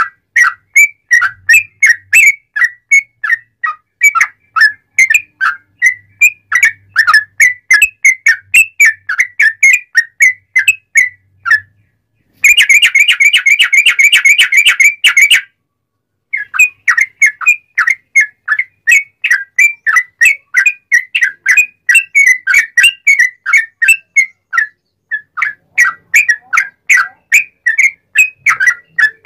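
Yellow-vented bulbul (trucuk) singing a long, loud run of quick whistled notes, about three or four a second. About twelve seconds in it breaks into a fast, dense trill lasting some three seconds, pauses briefly, then resumes the rapid notes.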